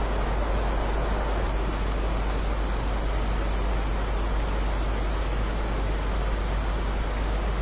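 Steady rain, a continuous even hiss without separate drops standing out, over a constant deep rumble.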